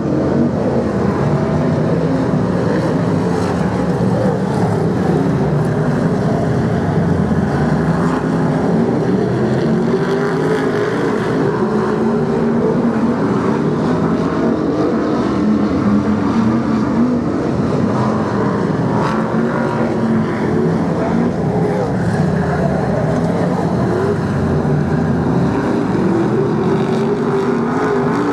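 A pack of BriSCA F1 stock cars with big V8 engines racing round the oval. Several engines rise and fall in pitch together in one steady loud din.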